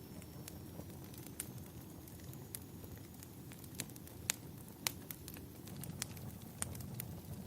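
Wood fire burning in a fireplace: irregular crackles and sharp pops over a low steady rumble, the two loudest pops about halfway through.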